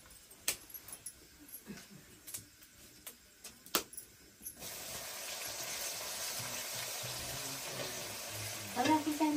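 Quiet at first, with a couple of sharp clicks. Then, about halfway in, food from a ladle goes into hot oil in an iron wok and starts a sudden, steady sizzle that keeps on to the end.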